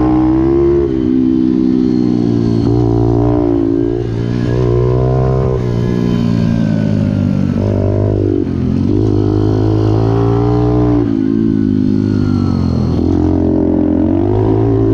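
Pit bike engine running hard, its pitch climbing and dropping again every few seconds as the throttle is opened and closed.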